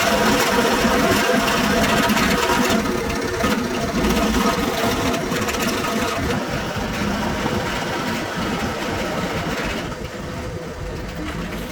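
A motorised machine running steadily with a fast chattering rhythm, easing off a little about ten seconds in.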